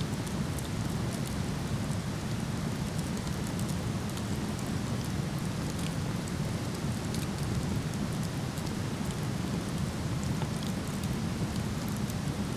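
Steady rushing of a waterfall, with small scattered crackles and pops from a wood fire burning in a fire pit.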